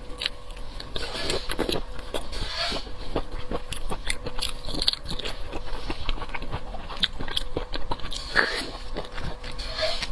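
Shrimp eaten close to the microphone: wet chewing and lip smacks with many small, irregular clicks.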